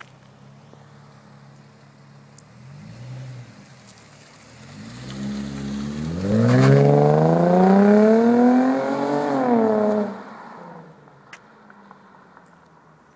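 2008 Infiniti M35x's 3.5-litre V6 through a Stillen aftermarket exhaust: idling, a brief blip, then one long rev that climbs for several seconds, is held high, and drops back to idle about three quarters of the way through.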